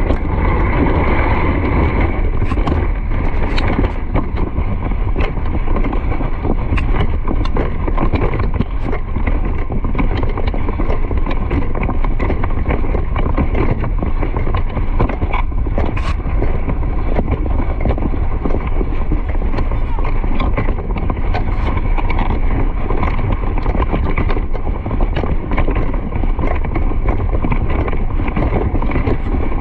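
Wind buffeting a moving microphone: a steady, heavy rumbling noise, with frequent irregular knocks and clicks on top.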